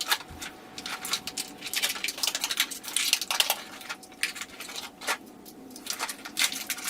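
Irregular clicks, taps and rustles of objects being handled, in a small room.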